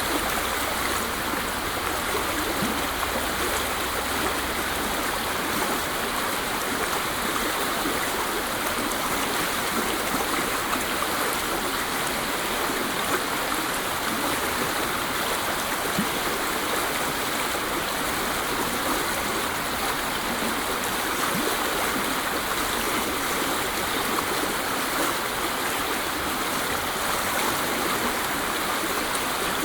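Waterfall, water falling and splashing in a steady, unbroken rush, played as masking noise for tinnitus.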